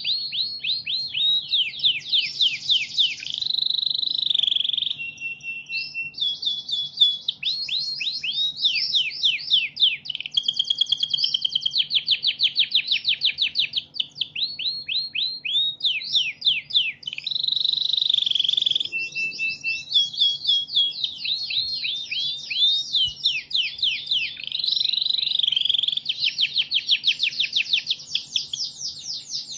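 Recorded songbird song played as a masteran tutoring track: fast runs of sharp, downward-sweeping whistled notes and trills, the phrase pattern changing every few seconds, over a faint steady low hum.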